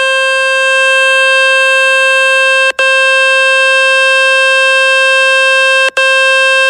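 A loud, steady, buzzy tone at one fixed pitch from the Fix My Speaker website's blower, played to shake water and dust out of a Samsung Galaxy M02's speaker. It breaks off for an instant twice, about three and six seconds in.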